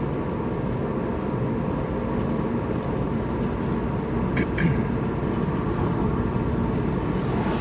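Steady engine and road rumble inside a moving Toyota car's cabin, with two short clicks about four and a half seconds in.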